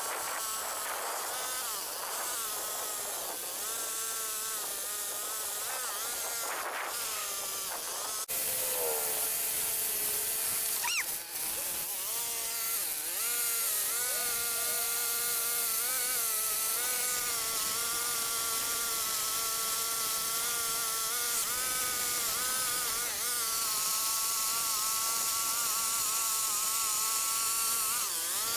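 Gas chainsaw running at high revs, its pitch wavering and dipping slightly as it cuts through tree limbs.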